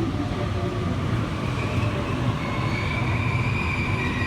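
Sydney Trains Waratah (A set) electric train at the platform: a steady rumble of the train, with a faint high whine that comes up about halfway through.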